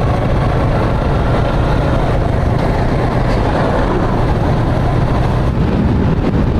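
Motorcycle on the move: steady wind rush on the microphone over the engine's low, even drone.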